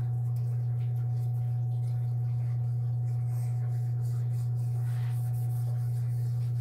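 Steady low hum at a constant level, with a faint higher whine held above it.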